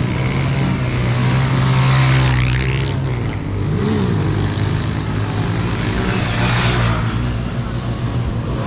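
Motorcycle engines running in the street, with a steady engine drone and vehicles swelling louder as they pass about two seconds in and again near seven seconds.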